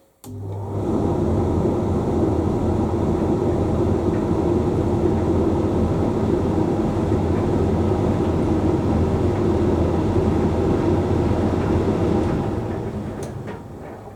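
Hoover Link X Care condenser tumble dryer's drum motor starting with a click, the drum then tumbling steadily with a low hum and rumble for about twelve seconds before winding down to a stop near the end. It is the stop-and-restart of a drying cycle's tumbling, typical of the drum alternating direction.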